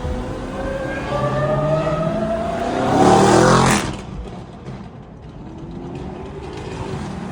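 A car accelerating hard past the listener, its engine rising steadily in pitch and getting louder. It peaks a little over three seconds in, then drops away suddenly, leaving a quieter engine rumble.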